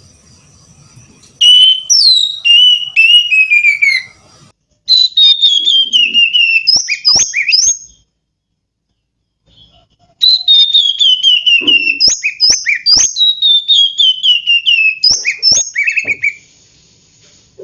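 Oriental magpie-robin (kacer) in full song: loud, clear whistled phrases, each a run of short notes stepping down in pitch broken by quick rising whistles. It sings in three bursts, with a silent pause of about two seconds before the last and longest.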